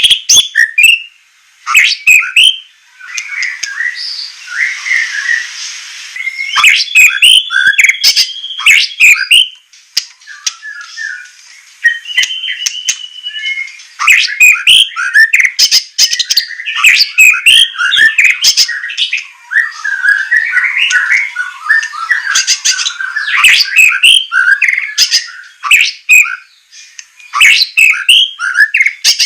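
White-rumped shama (murai batu) singing a fast, varied song of whistled phrases mixed with harsh rasping calls and sharp clicking notes, with brief pauses between bouts.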